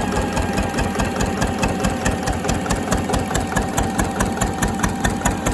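Slavia 8 hp single-cylinder stationary diesel engine running steadily, its firing heard as a regular beat of about six strokes a second.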